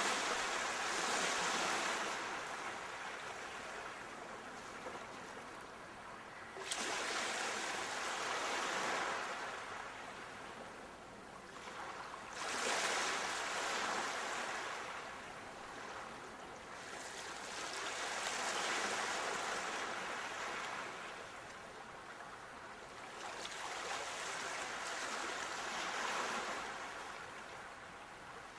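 Sea waves breaking and washing up the shore, five surges about every six seconds, each rising to a rush and easing off.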